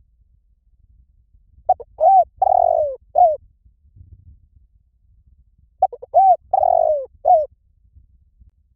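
Spotted dove cooing: two repeats of its phrase, a few short coos with a long rolling purr in the middle and a short coo to close. One phrase comes about two seconds in and the next about four seconds later.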